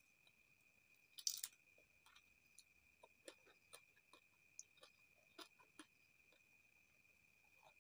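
Close-miked mouth sounds of someone eating tilapia fish stew: soft chewing and scattered small lip and mouth clicks, with one brief louder smack about a second and a half in. A faint steady high-pitched hum runs underneath.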